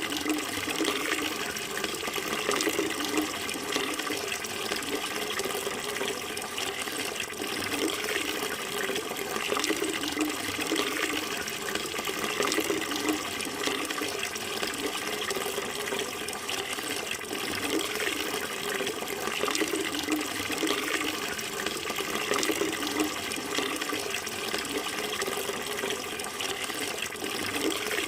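Running water flowing steadily, a continuous splashing rush with no pauses or changes.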